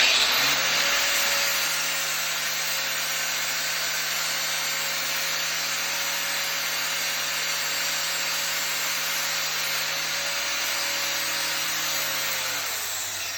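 Angle grinder started up and grinding the inside edge of a metal bevel, cleaning off sharp points, with a steady motor whine under the grinding noise. The motor winds down near the end as it is switched off.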